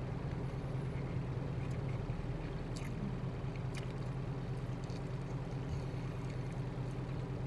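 Steady low hum of a truck's idling engine heard inside the cab, with a couple of faint clicks about three and four seconds in.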